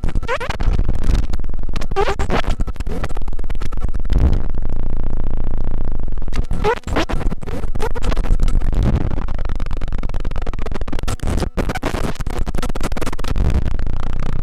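Soma Lyra-8 drone synthesizer making harsh, crackling noise over a deep steady drone, with short sweeping squeals in pitch and a couple of brief dropouts.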